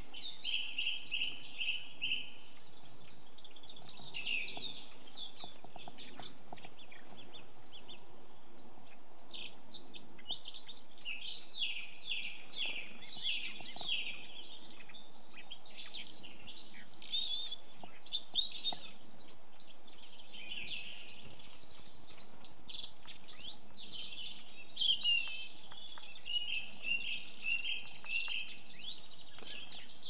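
Several songbirds singing and calling at once in overlapping phrases, some made of quickly repeated notes, over a faint steady background hush.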